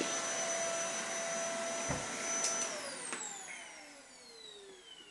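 Household vacuum cleaner running with a steady whine, then switched off about two and a half seconds in. Its motor whine falls in pitch and fades as it spins down. There is a single low knock shortly before the switch-off.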